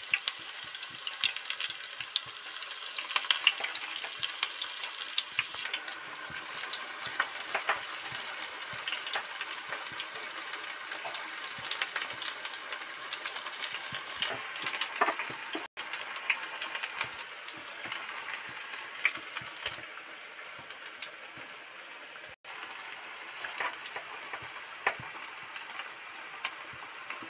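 Spinach pakoras deep-frying in hot oil: a steady sizzle full of sharp crackles and pops as small lumps of batter are dropped in one after another. The sound cuts out for an instant twice.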